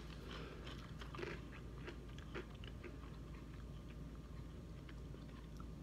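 Faint chewing of crispy thin potato sticks, a scatter of small crunches.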